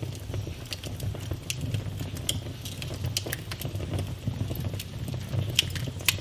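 Wood fire burning in a fireplace, crackling with irregular sharp pops over a steady low rumble of the flames; a couple of louder pops come near the end.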